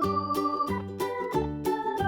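Upbeat children's background music played on electronic keyboard or organ sounds, with a steady beat and quick-changing notes.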